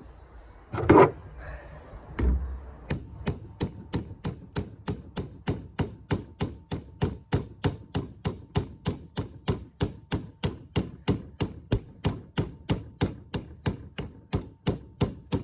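Mini axe head being knocked down onto its new wooden handle to seat it: a loud knock about a second in, another just after two seconds, then steady sharp knocks about three a second with a metallic ring.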